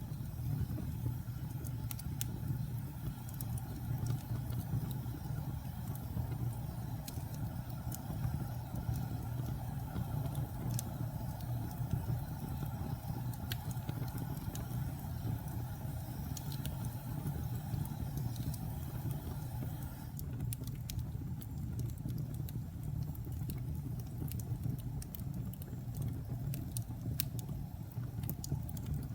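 Wood fire burning in a fireplace: a steady low rumble of flames with scattered sharp crackles and pops, which come more often in the second half.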